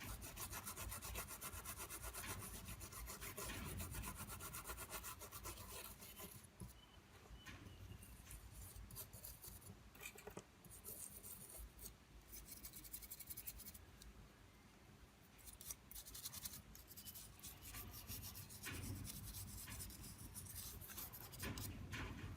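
Fast, even rubbing strokes against a small hard part, in two long spells with a quieter stretch of scattered small clicks between them.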